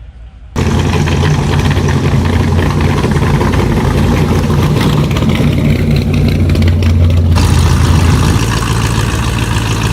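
A car engine running loudly at a steady idle. It cuts in suddenly about half a second in.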